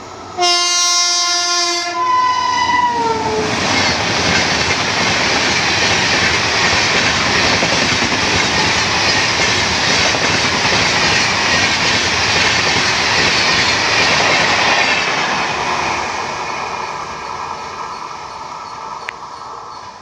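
An Indian Railways electric locomotive hauling the Shatabdi Express sounds its horn in one blast of about a second and a half, beginning about half a second in, and the horn's pitch drops as the locomotive passes. The coaches then run by loudly and steadily, and the noise fades over the last few seconds as the train moves away.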